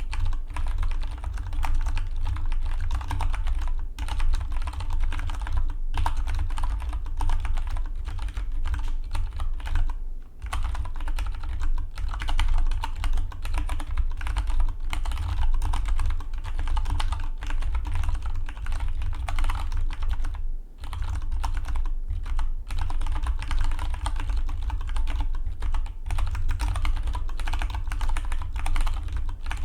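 Fast, continuous typing on a Dygma Defy split mechanical keyboard, a dense stream of key clicks with a few brief pauses, about 4 s, 10 s and 21 s in.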